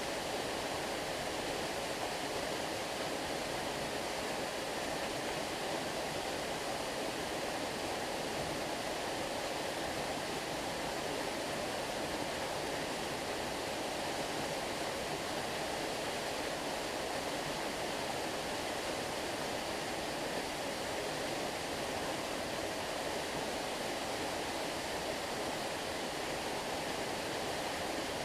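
Flowing stream water rushing steadily, an even, unbroken wash of sound.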